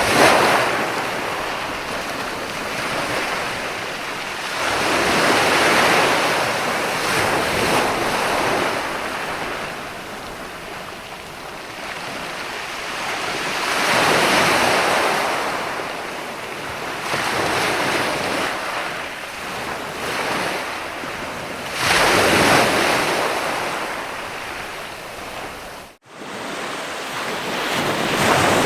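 Ocean waves washing in on the shore, the surf swelling and falling away every several seconds, about five surges in all. Near the end the sound cuts out for an instant before the surf resumes.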